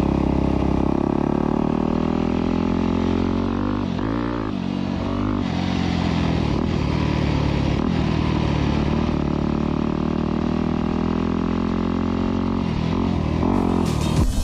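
Dirt bike engine running at a steady speed, its pitch wavering briefly as the revs change about four seconds in and again near the end.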